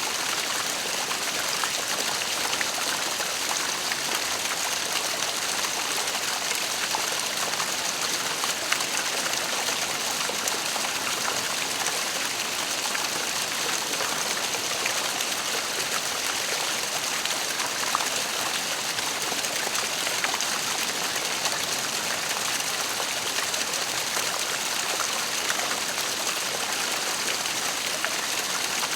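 Waterfall: a steady, unbroken rush of falling and splashing water, with small splashes ticking through it.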